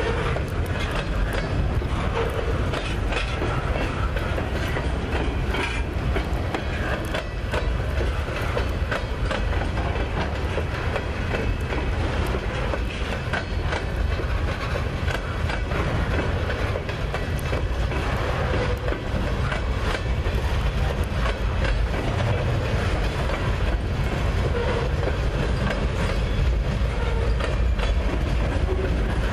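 Freight train flatcars loaded with steel pipe rolling past, with a steady low rumble and repeated clicking of steel wheels over the rails.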